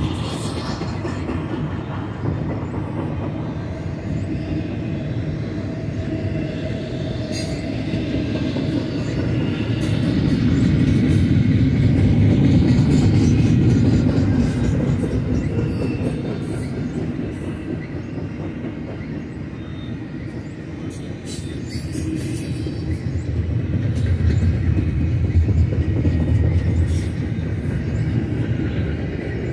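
BNSF double-stack intermodal container cars rolling past on the mainline: a steady rumble of steel wheels on rail with scattered clicks from the wheels, swelling louder twice as the cars pass.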